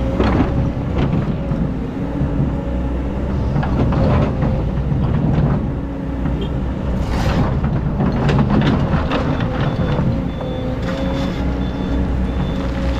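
Hydraulic excavator's diesel engine running under load, with repeated scraping and clanking from the bucket as it digs into hard, compacted sand.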